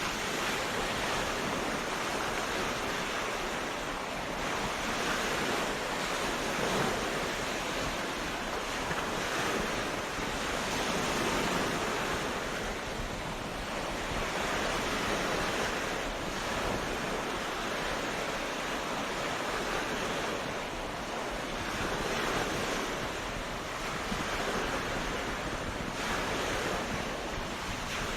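Ocean waves breaking on a beach: continuous surf that swells and eases every few seconds.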